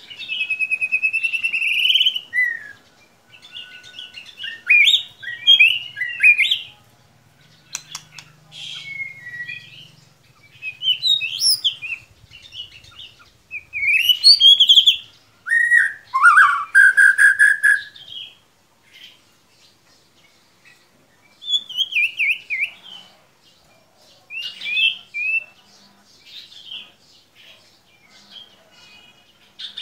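White-rumped shama (murai batu) singing: a series of varied, rich whistled phrases and chirps, each lasting one to four seconds, with short pauses between them.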